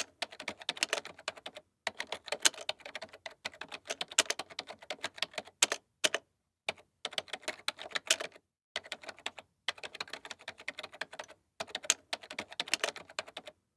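Rapid typing on a computer keyboard, a fast stream of key clicks in runs of a few seconds with short pauses between them, the longest just before the middle.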